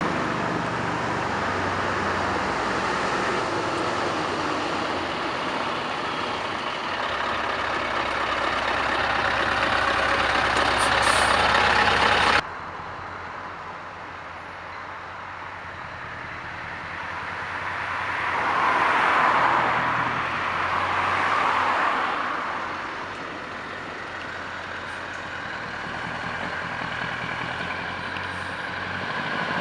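Scania V8 diesel truck engine running loud and steady, then an abrupt cut about twelve seconds in to a quieter engine sound that swells up and fades away again, as a truck passing by, before rising once more near the end.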